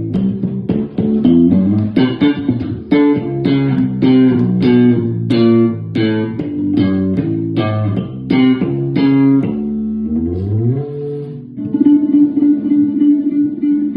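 Bass guitar played solo: a quick run of plucked notes, two to three a second, then a note sliding up in pitch and held notes ringing on near the end.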